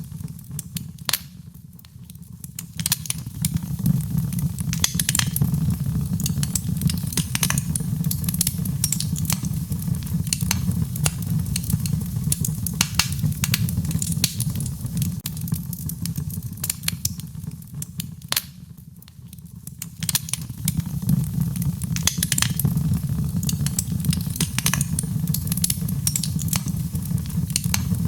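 Wood fire in a fireplace crackling and popping, many sharp snaps over a steady low rumble. The sound drops away briefly twice, about two seconds in and again near the middle.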